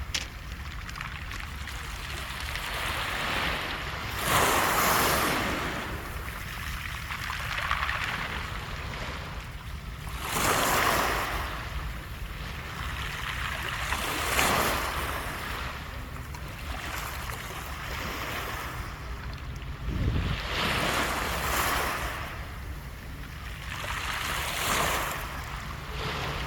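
Sea waves washing up a beach of round, smooth pebbles and drawing back, the stones rattling and hissing with each surge. There are five surges, about five seconds apart, over a steady low rumble.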